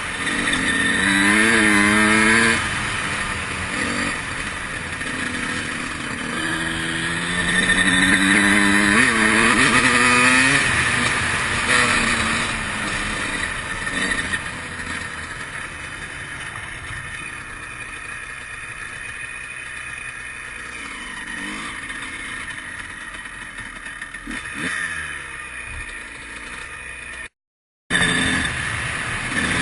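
2003 Honda CR125's single-cylinder two-stroke engine revving hard twice with rising pitch in the first ten seconds, then running at lower revs for a long stretch. The sound cuts out for about half a second near the end, then the engine revs up again.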